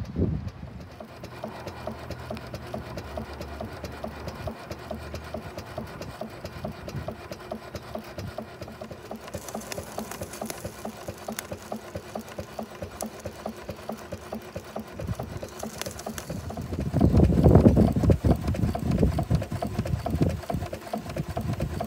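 4-inch scale Burrell 6nhp agricultural steam traction engine running, its exhaust and motion giving a steady, rapid, even beat. The sound grows louder for a couple of seconds about seventeen seconds in.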